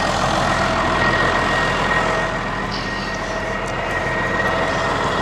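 Case Maxxum 5140 tractor's Cummins diesel engine running steadily with the PTO engaged and spinning, a thin steady high whine over the engine note.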